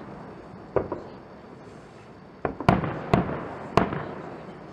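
Aerial firework shells bursting: a bang about a second in, then four more in quick succession from about two and a half seconds, each trailing off in a rolling echo.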